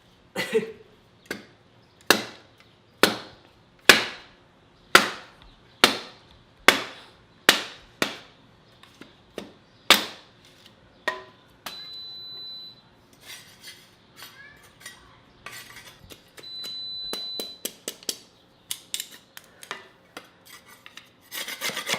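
A hammer striking wood about a dozen times, roughly once a second, in hard, evenly spaced blows. After that come lighter taps and two short steady machine whirs of about a second each.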